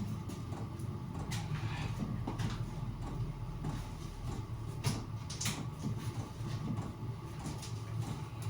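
Scattered short knocks and scrapes of hands-on fitting work, over a steady low hum.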